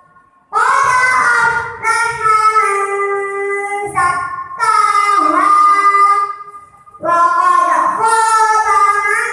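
A young girl's voice chanting Qur'an recitation from memory in a melodic style, three long drawn-out phrases with short breath pauses between them.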